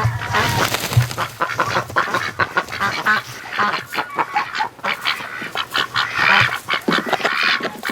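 Domestic ducks quacking and geese honking, many short calls overlapping throughout.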